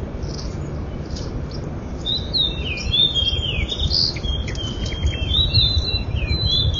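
Small birds chirping and calling in quick, high, sliding notes, thickening from about two seconds in, over a steady low rumble.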